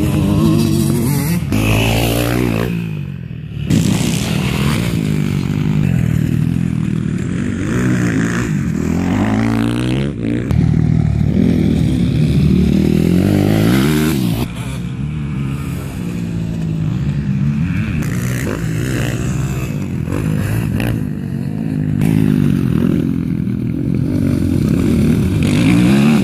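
Motocross bike engines running hard, repeatedly revving up and backing off as the riders accelerate and shift around the track.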